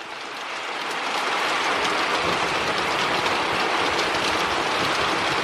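Heavy rain pouring down hard. Its hiss swells over the first second and a half, then holds steady.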